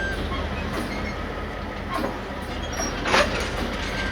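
Railway locomotive running, a steady low hum, with two sharp metallic knocks about two and three seconds in.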